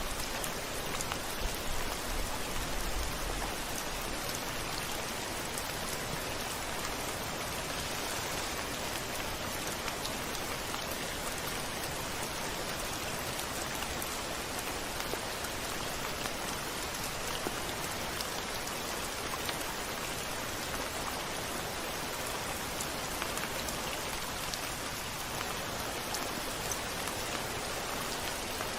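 Steady rain falling on a window, an even wash of drops throughout, with a brief low rumble in the first few seconds.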